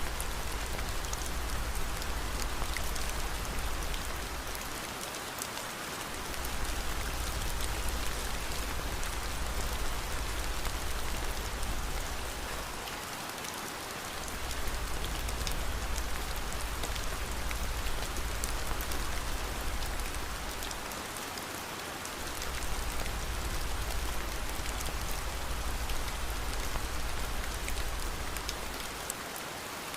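Steady rain with the crackle of a wood fire mixed in. A low rumble underneath dips out briefly four times, about every eight seconds.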